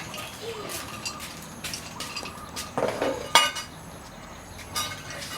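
Scattered light clinks and knocks, the loudest pair about three seconds in.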